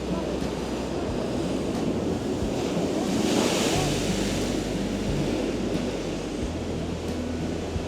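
Heavy storm waves breaking and surging against the harbour wall, with one louder crash about three seconds in, while strong wind buffets the microphone.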